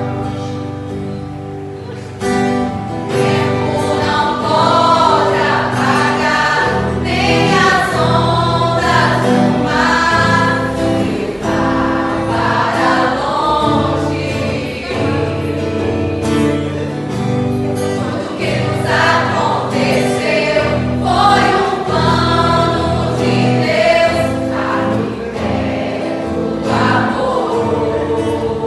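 Mixed choir of couples singing a gospel hymn in sustained phrases over held low notes.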